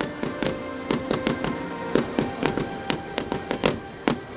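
Fireworks going off in a rapid, irregular run of sharp bangs and crackles, several a second, with music playing underneath.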